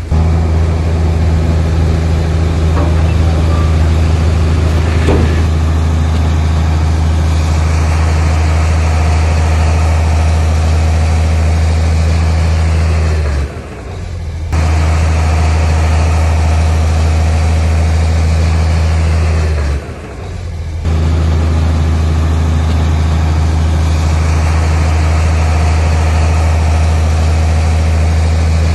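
Heavy diesel engine of earthmoving machinery running steadily at a constant speed, with a strong low hum. The sound breaks off briefly twice, about halfway through and again about two-thirds through.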